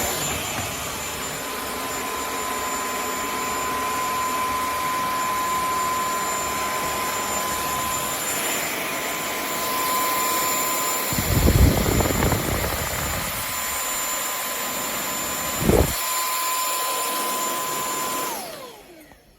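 Vacuum cleaner running steadily with a high motor whine, with a few low bumps partway through. Near the end it is switched off, its whine falling away as the motor spins down.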